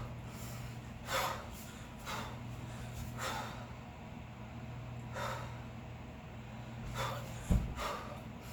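Sharp, forceful breaths from a kettlebell lifter working through a double 16 kg long cycle set, one every second or two. About seven and a half seconds in comes a single low thump, the loudest sound, once per rep.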